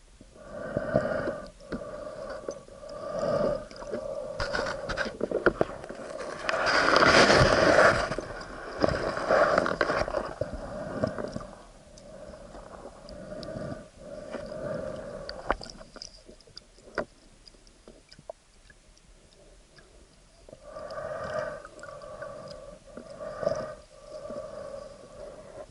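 Muffled water sounds of a diver moving and breathing, picked up through an action camera's waterproof housing: a run of dull pulses about once a second, a louder rushing swell about seven seconds in, and another cluster of pulses near the end.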